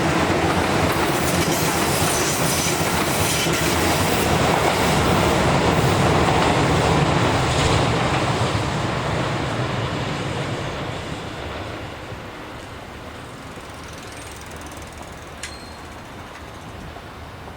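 Keisei 3400 series electric commuter train running past on the track, its wheels clattering over the rails. The sound fades away from about eight seconds in and has died down by about twelve seconds.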